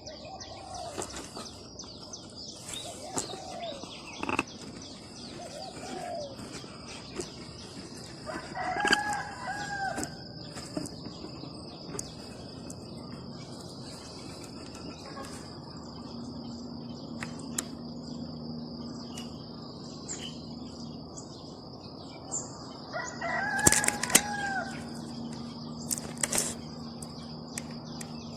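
A rooster crowing several times in short arched calls, loudest about 9 seconds in and again about 24 seconds in, over a steady high-pitched insect drone.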